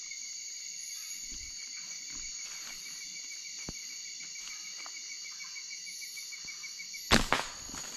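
Night insect chorus of crickets: steady high-pitched chirping with a fast, even pulse. A loud sudden knock comes about seven seconds in.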